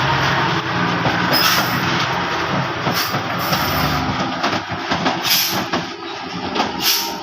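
Heavy truck's engine running under load, its low note weakening about halfway through, with several short hissing bursts.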